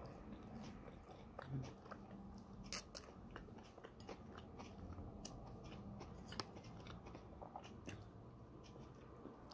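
Faint close-up chewing of a bite of bagel topped with chickpea salad: soft mouth sounds with scattered small clicks, a few of them louder.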